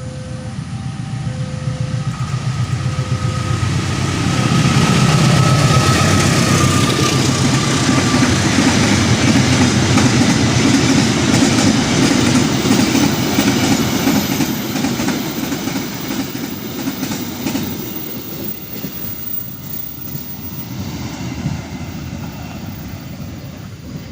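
A train passing at close range, its wheels clattering over the rails. It builds to its loudest about five seconds in, holds, then slowly fades. A thin high tone sounds over it for the first several seconds.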